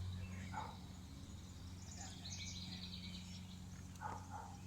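Faint outdoor ambience: birds chirping, with a flurry of high chirps about halfway through and a couple of short lower calls, over a steady low hum.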